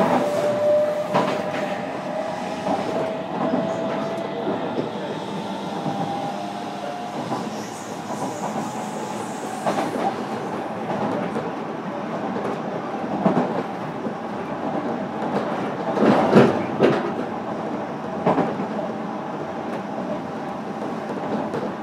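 Interior running noise of a JR Kyushu 305 series electric train, heard from inside a motor car: a steady rumble of wheels on rail, with a few sharp knocks as the wheels cross rail joints. A faint whine rises a little in pitch over the first several seconds.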